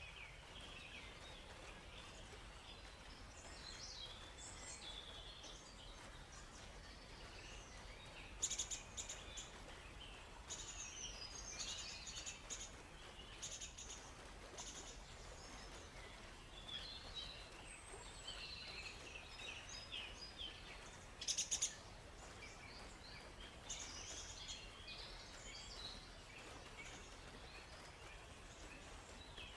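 Songbirds chirping and singing in forest ambience: many short, quick notes throughout, with a loud rapid trill about 8 seconds in and another about 21 seconds in. A faint steady hiss runs underneath.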